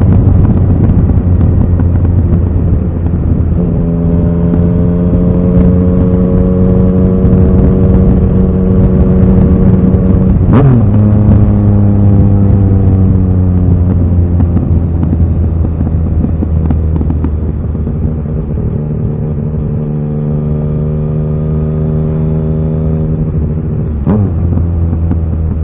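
Yamaha XSR900's three-cylinder engine running under way at a fairly steady pitch, the note dipping sharply for an instant twice, about halfway and near the end.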